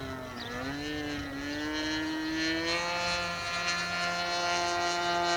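Model aircraft engine and propeller running during carburettor tuning, rising in pitch over the first two or three seconds and then holding a steady higher speed. The mixture is judged a bit lean.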